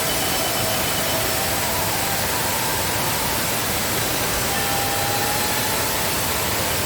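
Steady, loud rush of a waterfall in heavy rainy-season flow.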